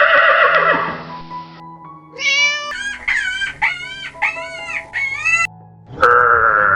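A series of animal calls over background music: a harsh call at the start, then about five short, high, arching calls in quick succession, and another harsh call near the end.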